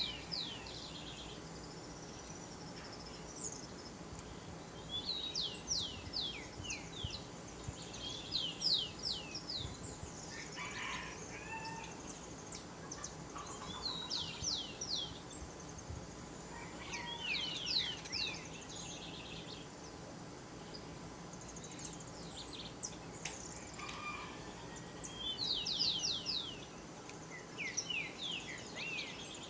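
A bird singing repeated short phrases, each a quick run of high, steeply falling notes, about seven times with pauses of a few seconds between, over a steady low background hum.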